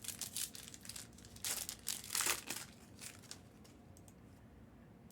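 Plastic packaging crinkling as it is handled, in a run of crackles lasting about three seconds, loudest around two seconds in.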